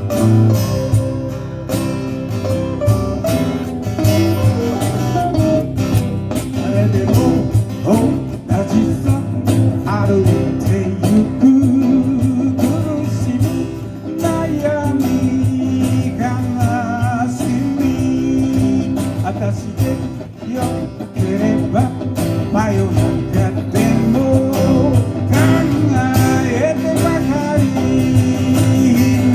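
Live music led by guitar, with a voice singing in parts.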